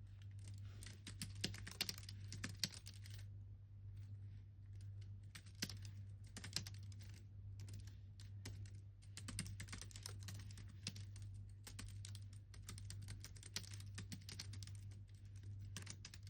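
Typing on a computer keyboard in runs of quick keystrokes, with a short pause about three seconds in. A steady low hum runs underneath.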